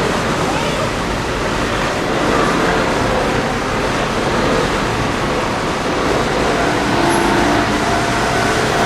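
Steady, loud rumble of passing vehicles at a railway level crossing, an even noise without distinct beats or pauses.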